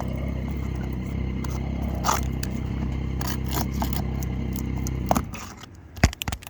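A steady low motor hum that cuts off suddenly about five seconds in, with scattered scrapes and clicks of shingles and tools being handled on the roof.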